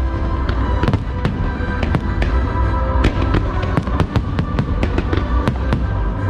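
Aerial fireworks bursting in quick succession, many sharp bangs and crackles, over loud show music with held notes and heavy bass.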